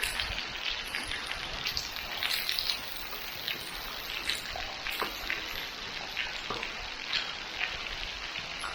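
Water leaking from a tunnel ceiling, with many drops pattering and splashing like rain over a steady trickle.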